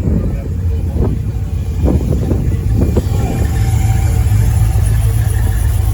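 Drift car's V8 engine running with a steady low rumble that swells louder about three and a half seconds in.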